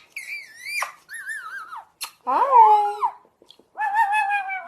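A parrot calling: about four separate squeaky, warbling whistles whose pitch wavers up and down, with short pauses between them.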